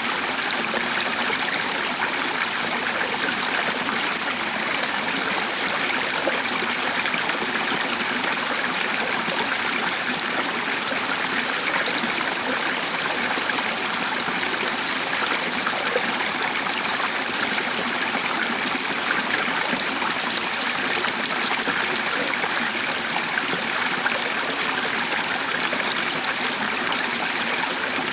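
A stream running steadily, an even rush and trickle of flowing water that holds the same level throughout.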